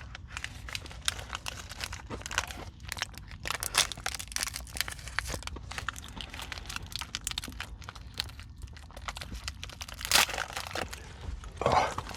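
Close-up crunching of hard Nature Valley granola bars being bitten and chewed, a dense run of irregular crackles, with a louder crunch about ten seconds in. The bars are crumbling and shedding crumbs as they break.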